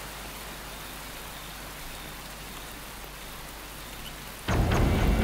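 Heavy rain falling steadily, an even hiss. About four and a half seconds in, a sudden loud low hit opens ominous soundtrack music.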